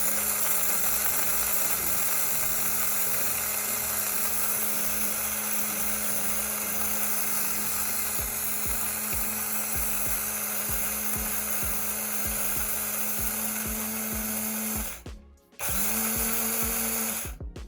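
Link Chef CG-8420 electric coffee grinder running steadily, its motor humming as it grinds whole coffee beans. It stops about 15 seconds in, then runs again for about a second and a half before cutting off near the end.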